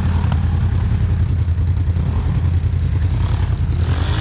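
An off-road vehicle's engine running steadily, with a short click about a third of a second in.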